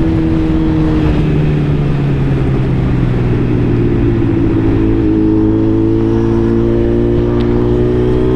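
Suzuki Hayabusa's inline-four engine running at a steady cruise, its pitch easing down slightly about a second in and then climbing slowly through the second half. Wind and road noise run under it.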